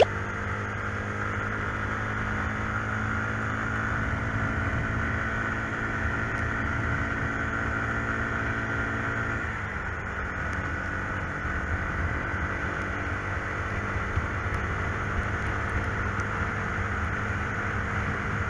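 Motorcycle engine running steadily while riding. Its note changes about halfway through.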